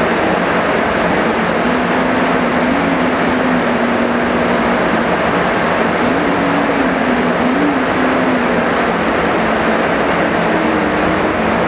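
Steady heavy rain, a dense even hiss without let-up, with a faint low hum that wavers in pitch underneath.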